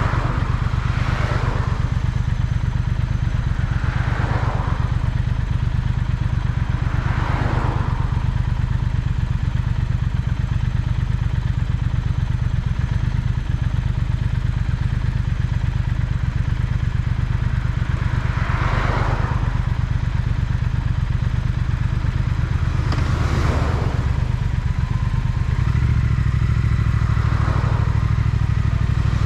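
Triumph Speed Twin parallel-twin motorcycle engine running steadily while riding, heard from on the bike, with about six brief whooshes passing by. The engine grows louder near the end.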